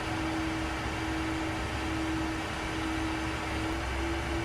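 Steady in-flight cockpit noise of a Learjet 60XR: rushing airflow and the hum of its twin Pratt & Whitney PW305A turbofans, with one constant low tone running through it.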